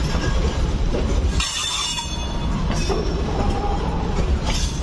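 Freight wagons of a goods train rolling along the track: a steady low rumble with wheel clatter, and a brief high squeal of wheels on rail about one and a half seconds in.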